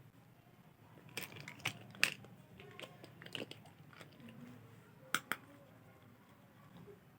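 Plastic being handled: a run of sharp, irregular crackles and clicks, then two more clicks a few seconds later.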